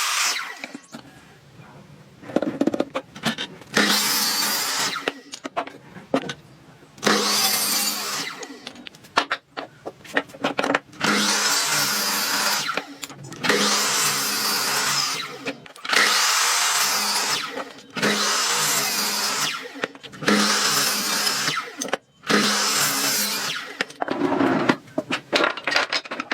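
A hand-held electric power tool working wood in repeated passes, each a second or two long with short pauses between, about ten in all. The motor hum stays steady under the hiss of the cutting.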